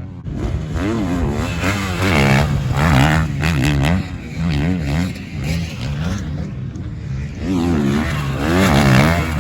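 Motocross bikes ridden hard on a sand track, engines revving up and dropping again and again through the gears as they go past, loudest twice.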